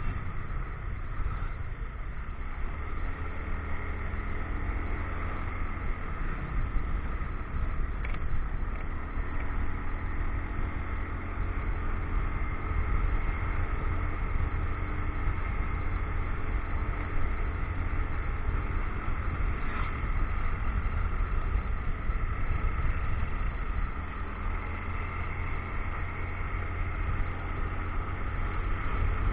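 Motorcycle engine running while riding, with steady wind and road rumble on an action camera's microphone.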